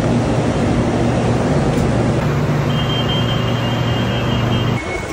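BTS Skytrain electric train running: a steady low hum over a rumble, with a high thin tone joining just past halfway. The sound cuts off sharply near the end.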